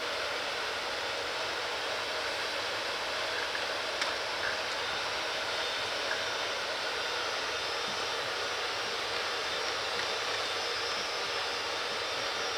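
Freight train running past: a steady rushing noise with faint high steady tones over it, and a small click about four seconds in.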